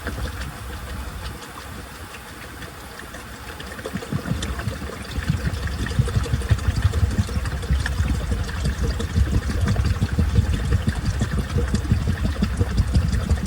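Washing machine running: quiet water sounds at first, then about four seconds in the drum churning gets louder, with the motor's low rumble and a fast, irregular thumping of water and laundry sloshing.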